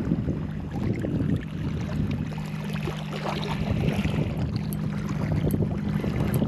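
A steady low engine hum over wind and water noise. The hum fades briefly about a second and a half in, then carries on.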